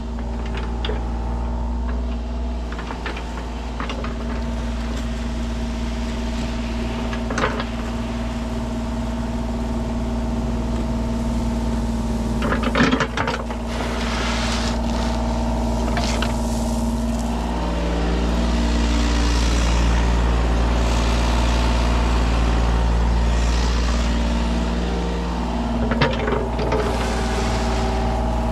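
Kubota 33 mini excavator's diesel engine running steadily as the machine works. Its note drops in pitch about two-thirds of the way in and comes back up near the end, with a few sharp clanks of metal along the way.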